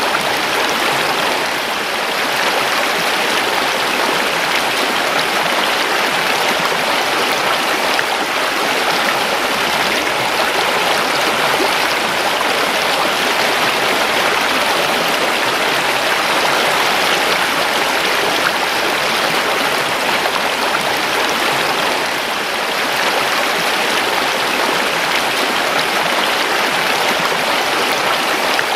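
A creek rushing and babbling over stones, a steady, unbroken flow of water.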